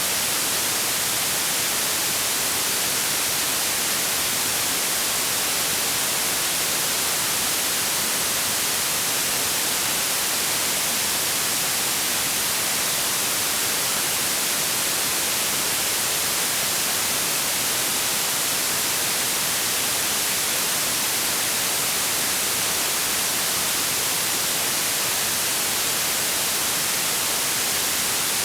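Steady white noise: an even, unchanging hiss across the whole range, bright in the highs.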